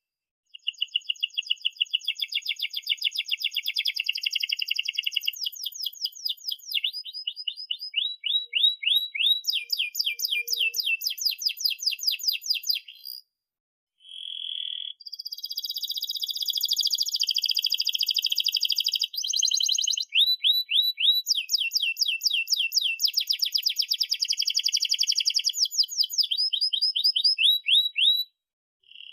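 Domestic canary singing a long song of fast repeated chirps and rolling trills, with a short break about halfway through and another near the end.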